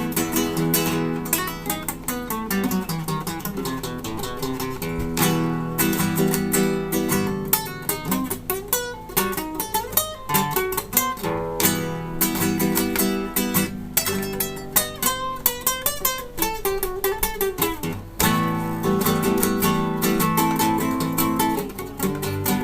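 Acoustic guitar playing an instrumental piece, with plucked melody notes mixed with rapid strummed chords.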